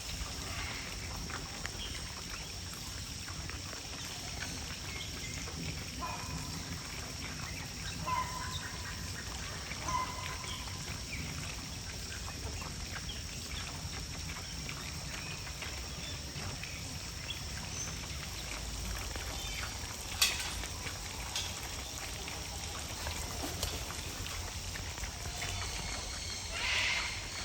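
A few short bird calls over steady outdoor background noise and a steady high tone, with a single sharp click about twenty seconds in.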